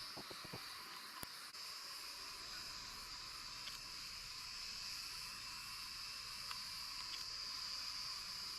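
Insects chirring in a steady, high, unbroken drone, with a few faint clicks in the first second or so.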